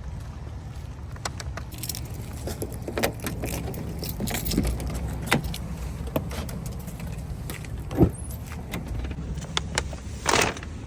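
Scattered clicks, clinks and knocks of objects being handled, over a steady low rumble. The sharpest knock comes about eight seconds in, and a short rustling burst follows near the end.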